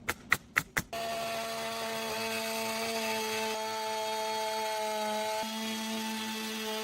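A few sharp knocks in the first second, then a power tool's motor running at a steady, unchanging pitch.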